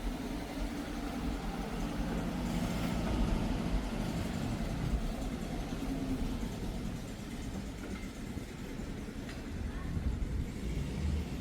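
A car engine running, its sound mostly low and steady.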